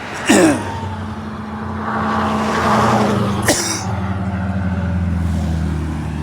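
Highway traffic going by: a steady engine drone that swells in the middle as a vehicle passes. Two sharp whooshing sounds come about a third of a second in and again about three and a half seconds in.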